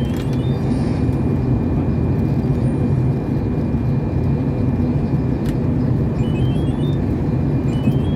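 Steady airliner cabin noise, the low rush of engines and airflow heard from a passenger seat on the descent toward landing. Faint short high tones rise in steps near the start and again near the end.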